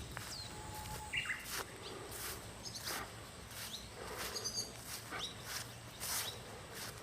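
Small wild birds giving short chirps and quick falling calls, with soft irregular scuffs every half second or so.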